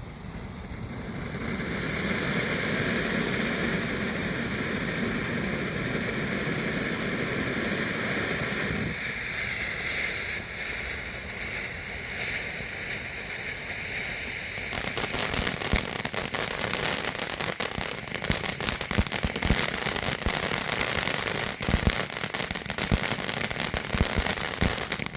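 World Class Beer Pack firework fountain burning: a steady hissing spray of sparks that builds over the first second or two, then about fifteen seconds in turns to a loud, dense crackling that cuts off abruptly at the end as the fountain burns out.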